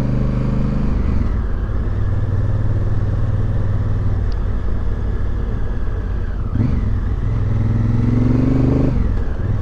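Motorcycle engine running on the move. It eases off about a second in, then its pitch climbs steadily from around seven seconds and drops back sharply near the end as the throttle is closed or a gear is changed.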